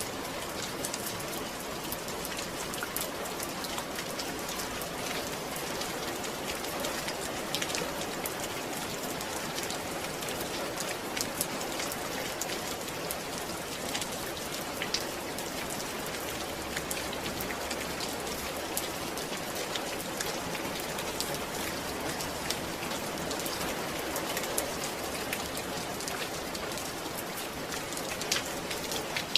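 Steady rain falling on a surface, an even hiss with many sharp drop ticks, a recording of rain for sleep.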